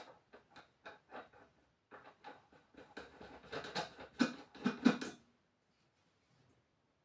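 Metal motorcycle triple-tree parts and an aluminium nut being handled and fitted: a run of irregular light clicks and taps, with a few louder knocks about four to five seconds in, stopping soon after.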